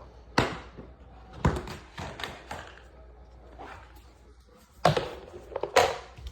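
A handful of sharp knocks and thumps as objects are handled and set down. The loudest come about half a second in and twice near the end.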